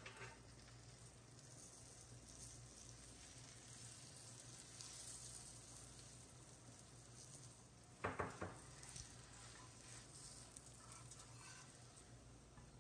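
Faint sizzle of a paratha frying on a flat tawa griddle as it is brushed with oil. A few sharp clicks about eight seconds in are the loudest moment.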